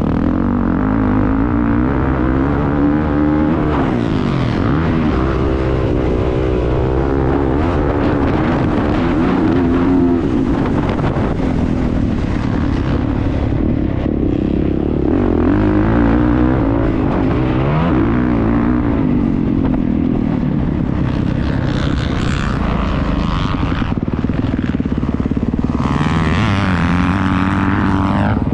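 Motocross motorcycle engine heard on board at race pace, its pitch rising and falling over and over as the rider works the throttle and shifts gears.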